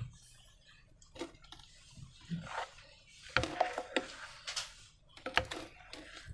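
Slime being squished and pulled by hand: a series of short, irregular wet squelches and clicks, loudest about three and a half and five and a half seconds in.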